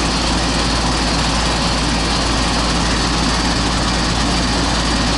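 Goodman central air conditioner's outdoor condensing unit running: a steady, loud rush from the condenser fan over the low hum of the compressor.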